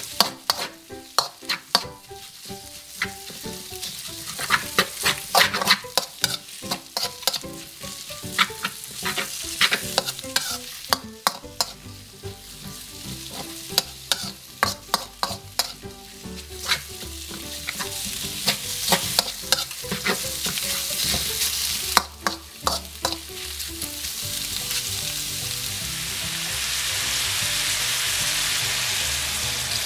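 Metal spatula scraping and clanking against a metal wok as sliced pork and shallots sizzle in hot oil during a stir-fry. The clanks come thick and fast for most of the time, then thin out near the end as the sizzling grows louder.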